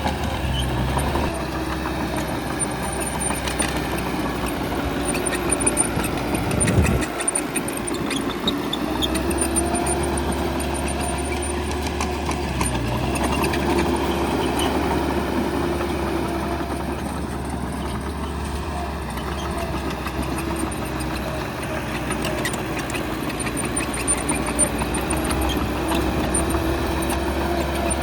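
Diesel engine of heavy earthmoving machinery running under varying load, its pitch rising and falling as it works. There is a brief louder burst about seven seconds in.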